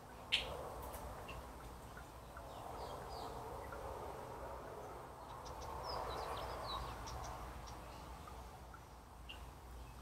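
Birds giving scattered short, high chirps over a soft background haze that swells and fades, with one sharp click about a third of a second in.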